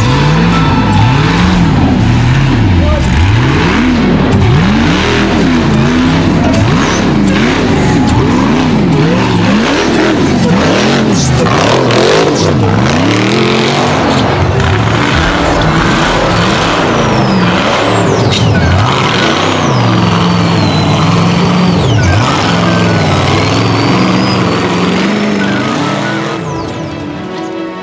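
Off-road race vehicle engines revving hard, their pitch rising and falling over and over as the throttle is blipped and released, with a dip in level near the end.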